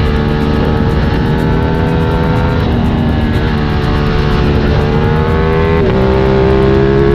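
Aprilia RS 660 parallel-twin motorcycle engine running under way at steady road speed. Its pitch sags slightly, then climbs, and dips sharply for a moment about six seconds in.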